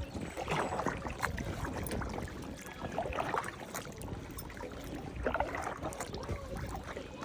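Water splashing and lapping around a kayak as it is paddled, with a few splashy paddle strokes a second or two apart.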